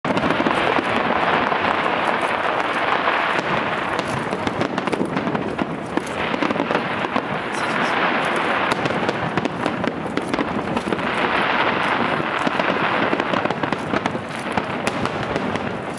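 Fireworks display: a dense, continuous crackle of many rapid pops and bursts from the shells. It swells a couple of seconds in and again about eleven seconds in.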